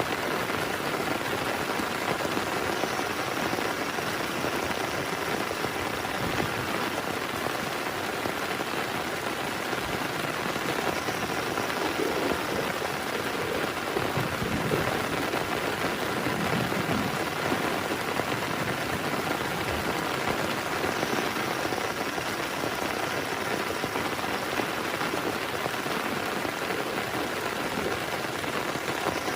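Heavy rain falling steadily on a tent, a dense unbroken patter with no let-up.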